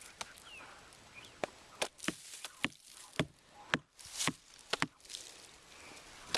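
Irregular sharp knocks and scuffs, a dozen or so spread unevenly, with short bursts of rustling in between.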